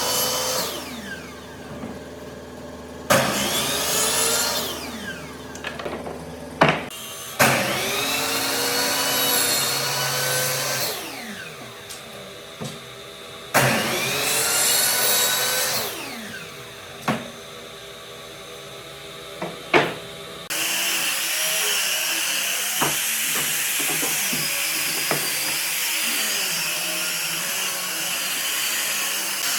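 Electric power tool, used on wood, switched on in short runs of two or three seconds at a time, its whine rising as it spins up and falling as it winds down. From about two-thirds of the way through it runs steadily without stopping.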